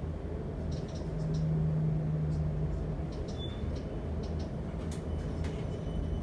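Inside an electric commuter train stopped at a station platform: a steady low rumble and hum, with a low steady tone from about one second in to nearly three seconds in, and a few faint clicks.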